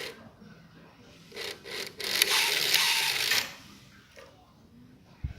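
Homemade miniature bus engine's small motor running in short bursts: two brief whirs about a second and a half in, then a longer run of just over a second.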